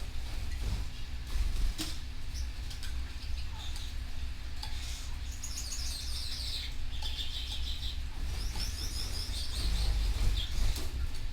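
Canaries chirping in quick, high twittering trills, strongest in two stretches in the middle and latter part, with a few sharp clicks, over a low background rumble.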